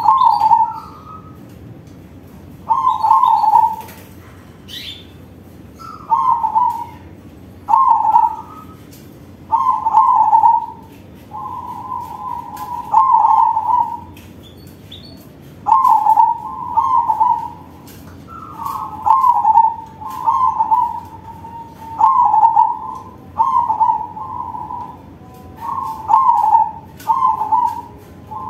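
Crossbred zebra dove (perkutut crossing) singing in a big voice: a long run of loud, rolling coo phrases, one every second or two. Faint higher chirps sound in the background.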